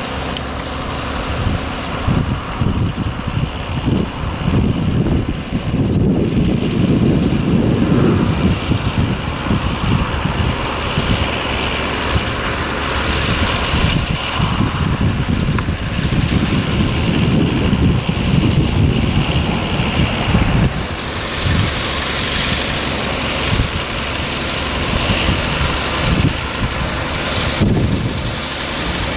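Tractor engine running steadily, with a gusty low rumble over it.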